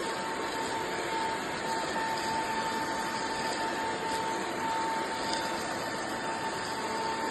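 Eureka RapidClean Pro cordless stick vacuum running steadily: a motor whine over the rush of suction air.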